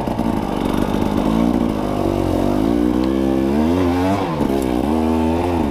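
Dirt bike engine running under changing throttle, its pitch rising and falling several times.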